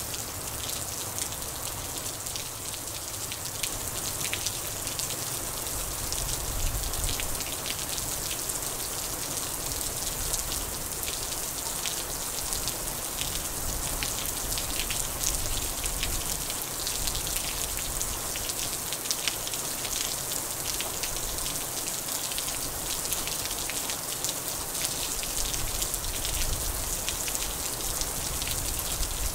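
Heavy rain pouring down steadily: a dense, even hiss of falling rain with countless close drop hits pattering throughout.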